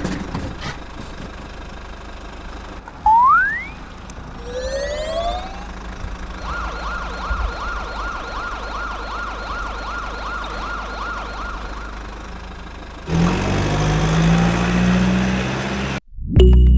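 Electronic siren wailing in quick repeating cycles, about three a second, after a few short rising whistle-like glides. Near the end a louder rushing noise takes over.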